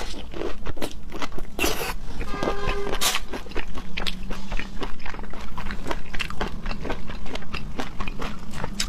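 Close-miked mukbang eating sounds: a person biting and chewing food, with many irregular wet smacks and crunchy clicks.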